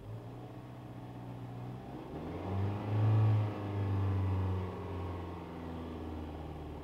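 Car engine running steadily, then revved up about two seconds in toward 2,500 rpm and held for a couple of seconds before easing back down, heard from inside the cabin. This is the engine held at raised rpm to test the alternator's charging voltage under load.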